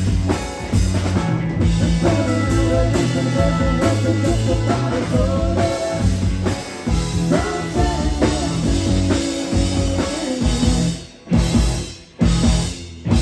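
Rock band playing a passage without vocals, with drums and guitar, breaking off twice for a moment near the end.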